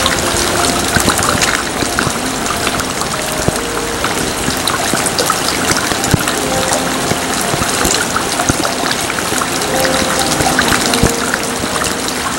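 Steady heavy rain, a dense patter of drops with water trickling and splashing as it runs off.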